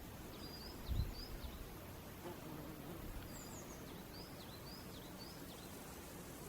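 A small songbird singing two short phrases of quick, high, up-and-down notes over steady background hiss, with a low thump about a second in.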